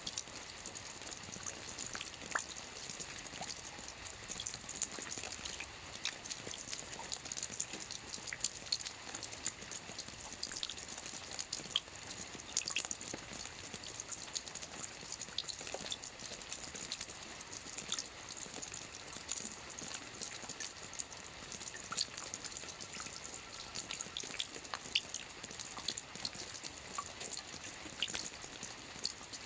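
Steady rain with many individual drops pattering and dripping close by.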